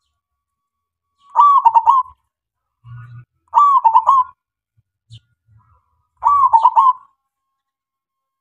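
Male zebra dove (perkutut) singing: three short cooing phrases, each a quick run of notes, about two and a half seconds apart.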